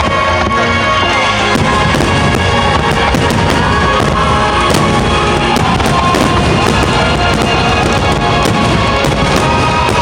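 Music playing continuously while fireworks burst overhead, with many sharp crackles scattered through it.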